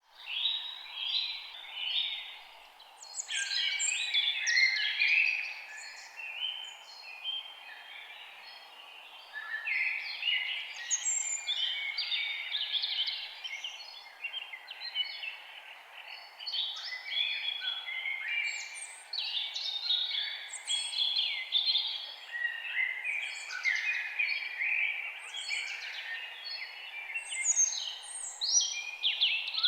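Several forest birds singing and chirping at once, a dense run of overlapping quick phrases, over a faint steady background hiss.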